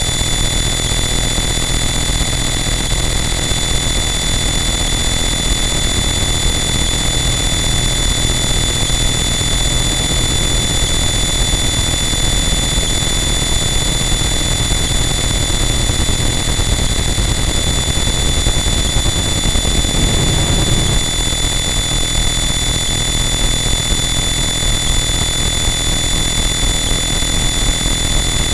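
Harsh noise wall: a dense, unchanging wall of loud distorted static with steady high-pitched whining tones running through it. A brief low swell comes about two-thirds of the way in.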